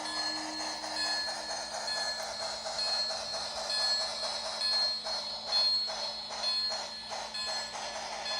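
Bluetooth Santa Fe 4100 model steam locomotive running with its sound effects on: rhythmic steam chuffs over a steady high tone.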